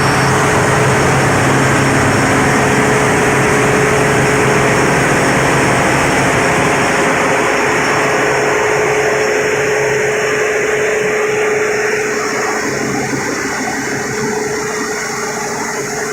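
Mitsubishi diesel generator sets running steadily: a loud engine drone with a steady whine over it, the deepest part of the drone fading about thirteen seconds in.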